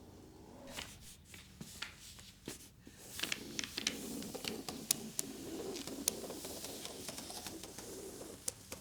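Household handling sounds: scattered small clicks and taps of objects being picked up and set down, becoming a busier run of clicks and rustling about three seconds in.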